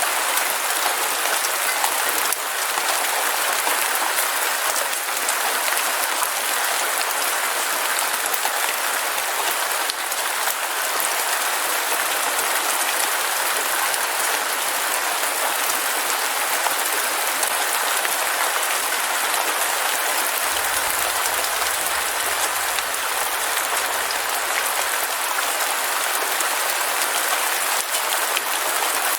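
Heavy rain falling steadily: a dense, even hiss with scattered faint drop ticks, unchanging throughout.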